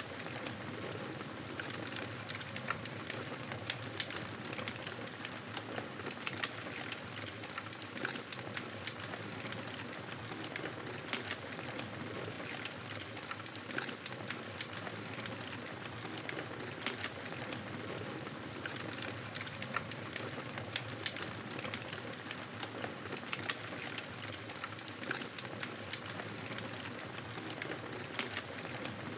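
Wood fire crackling in a fireplace: a steady low hiss with many small, irregular pops and snaps throughout.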